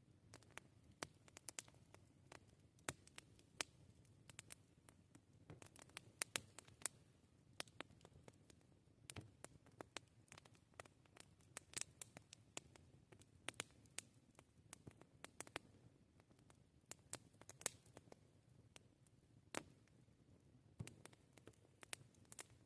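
Wood campfire crackling: irregular sharp pops and snaps, several a second, some louder than others, over a faint low rumble.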